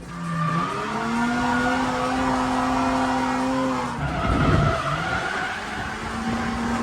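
Drift car's engine held high in the revs with tyres squealing through a slide. The revs drop and pick up again about four seconds in.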